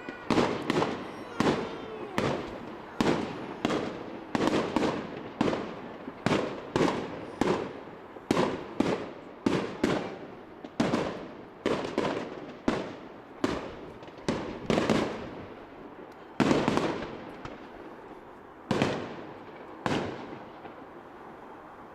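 Fireworks display: a rapid series of aerial shell bursts, about two bangs a second, each trailing off with an echo. The bangs thin out in the last several seconds, the final one coming about two seconds before the end.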